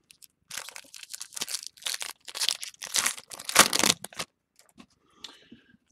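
A foil trading-card pack being torn open and crinkled: about four seconds of dense crackling rustle, then a few faint rustles near the end.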